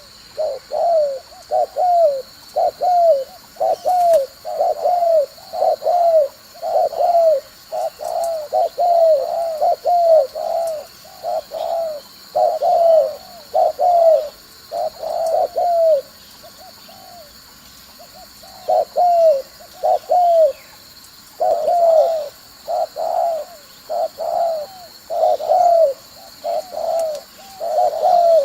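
Spotted dove (cu gáy) decoy bird cooing in quick runs of short repeated notes, with a pause of about three seconds just past the middle. This is the provoking 'kích bổi đá lụp' decoy call that trappers use to lure wild spotted doves.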